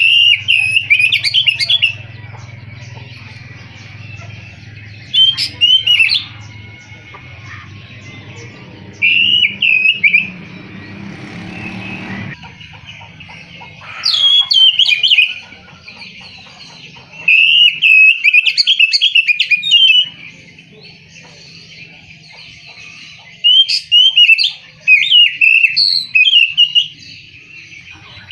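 Oriental magpie-robin (kacer) singing loud bursts of rapid, varied whistled phrases, about six bursts with pauses of a few seconds between them. A steady low hum lies underneath and fades about halfway through.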